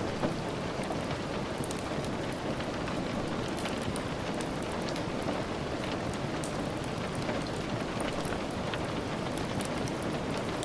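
Steady rain falling, a dense even patter with many small sharp ticks scattered through it.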